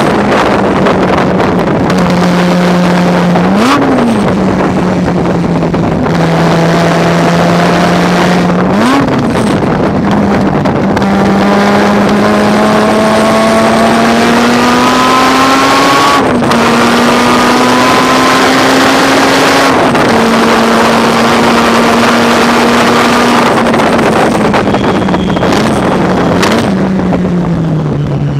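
Rotary-engined race car's engine at racing speed, its note climbing steadily through each stretch and leaping up and back briefly four times as the gears change, with a fall in pitch near the end as the car slows.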